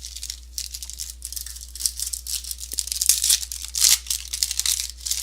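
A trading-card pack's foil wrapper being torn open and crinkled, in quick, irregular rustles that are loudest about three to four seconds in.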